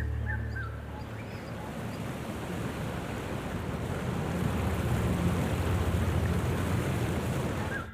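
A rushing noise of the kind made by surf or wind, swelling toward the middle and cutting off abruptly near the end. A few bird chirps sound at the very start.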